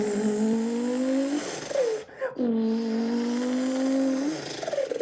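A man's voice imitating a Lexus SC300 engine accelerating: two long held engine notes that rise slightly in pitch, each followed by a short falling chirp.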